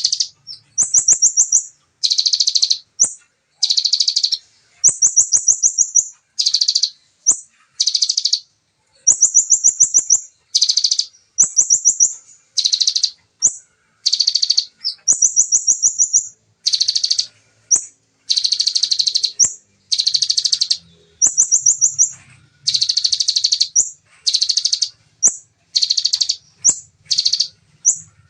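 A konin songbird singing a fast series of tight, rapid trilled bursts in the style of a bar-winged prinia (ciblek) song, about one burst a second, many ending in a short upswept note.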